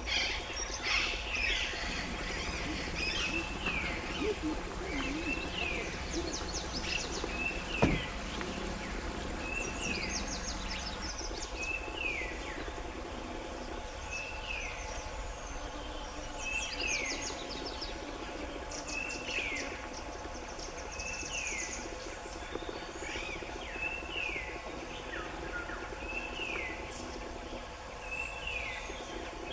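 Wild birds calling in forest: one bird repeats a short, downward-slurring call about once a second, with rapid high trills from others in between. A single sharp click about eight seconds in.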